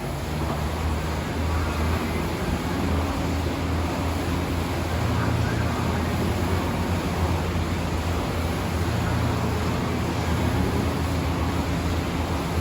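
A steady low engine rumble with a faint noisy hiss above it, holding level throughout.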